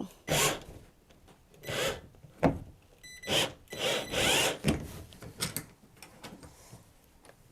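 Nuts being tightened onto the bolts of a kayak handle: a tool rasping in about eight short bursts, with a brief whine near the middle.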